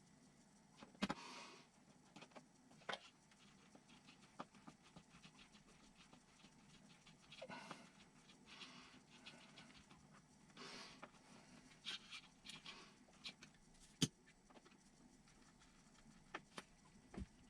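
Mostly near silence, broken by faint scattered clicks and taps of small plastic and metal parts being handled, with a few soft breathy rustles.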